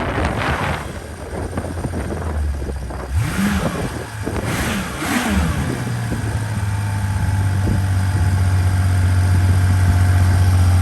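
1982 Honda CBX's inline-six engine running after a cold start, blipped twice, about three and five seconds in, then settling into a steady idle that grows slightly louder near the end.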